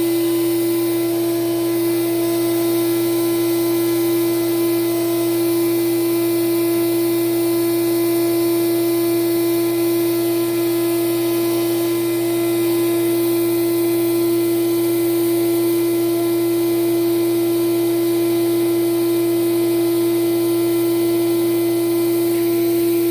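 Hoover Celebrity Quiet Series canister vacuum's motor running at a steady speed, with a strong constant whine over airflow noise, during an airflow test with a meter fitted to its inlet.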